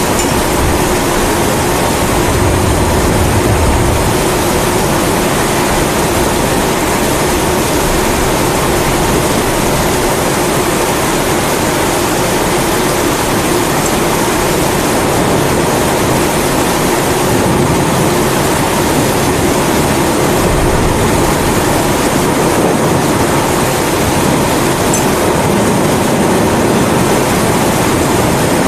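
Kerosene pressure (primus) stove burner giving a steady rushing hiss, mixed with rain.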